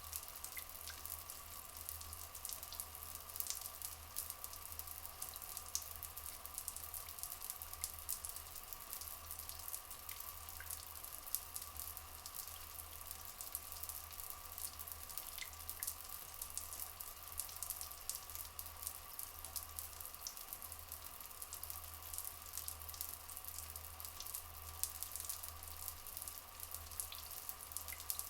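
Water flowing and trickling steadily, full of fine drips and patters, with a faint steady tone underneath.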